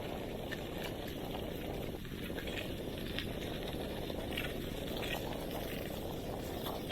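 Steady low rushing noise of wind on the microphone and tyres rolling during a bicycle ride, with a few short higher-pitched sounds scattered through.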